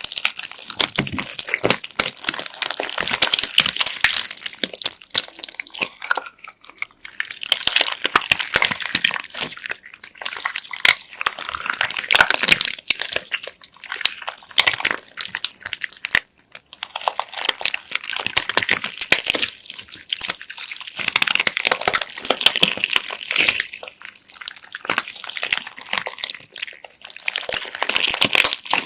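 Hands squeezing and kneading slime packed with beads: a dense, crackling stream of small clicks and crunches in bursts, with short lulls every several seconds.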